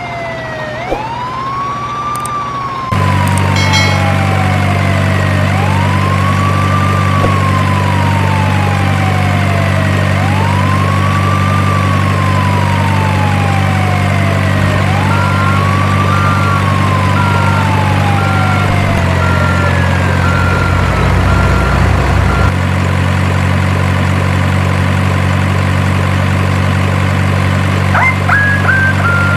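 Electronic siren wailing, its pitch rising quickly then falling slowly, repeating about every four to five seconds. A steady low electronic engine hum starts about three seconds in, and a beep sounds about once a second for several seconds around the middle.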